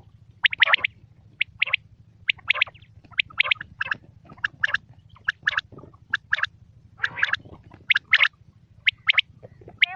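Quail calling: short, sharp notes in quick pairs and triplets, repeated over and over, with a faint steady hum underneath.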